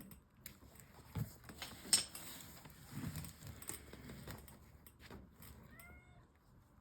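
Soft handling clicks and rustles with one sharp click about two seconds in, then a short cat meow near the end.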